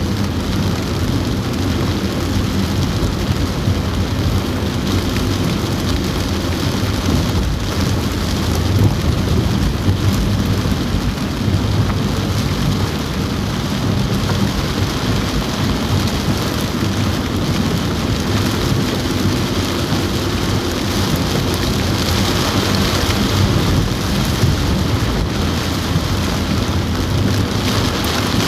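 Heavy rain falling on a car roof, heard from inside the car: a dense, steady hiss over a steady low rumble.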